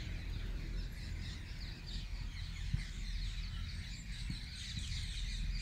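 Small birds chirping and twittering in many short, quick calls, over a low steady rumble.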